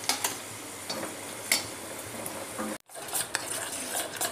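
Momos sizzling steadily as they fry in hot oil in a kadai, with a few sharp clinks of a slotted spoon against the pan. After a cut about three seconds in, a spoon clicks against a bowl as a thick mixture is stirred.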